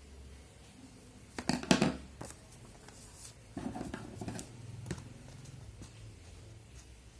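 A sheet of paper handled and folded: crisp rustling and crackling strokes, loudest about a second and a half in, another cluster about halfway through, and a sharp tap near five seconds.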